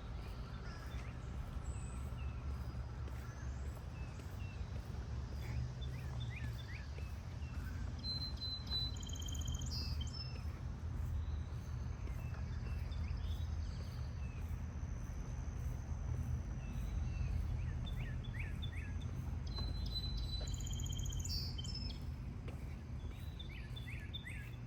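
Several short bird chirps and calls, heard in two clusters, over a steady low outdoor rumble.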